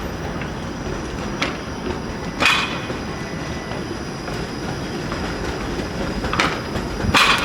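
Streetcar rolling slowly over the intersection's track switches: a steady rumble broken by four sharp clunks of the wheels crossing the switch and crossing points, the loudest near the end.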